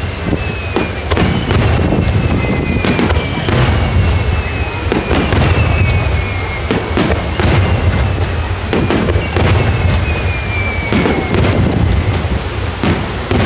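Aerial fireworks going off in quick succession, a rapid series of bangs and cracks, with high whistling tones that glide slowly down in pitch and a steady low rumble underneath.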